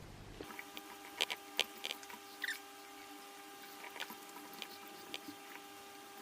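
Faint eating sounds: scattered small clicks and mouth smacks of someone eating fish curry, over a faint steady hum.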